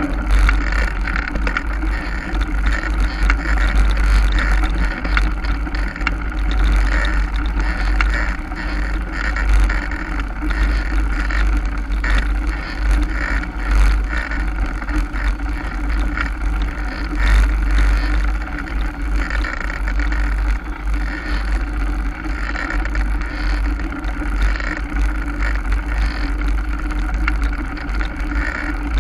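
Wind rumbling over the microphone and a mountain bike rattling over a rough trail while riding, with frequent small knocks throughout.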